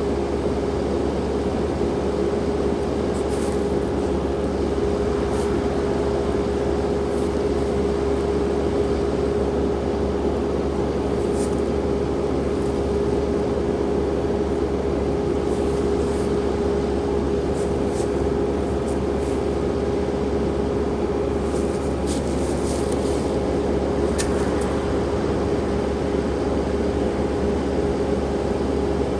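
Skid steer engine running steadily at constant speed, a continuous hum with a steady pitch that does not rise or fall, with a few faint clicks.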